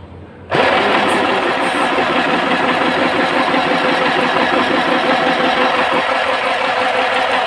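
Portable mini sewing machine running steadily at speed, its needle stitching in a fast, even rhythm; it starts suddenly about half a second in.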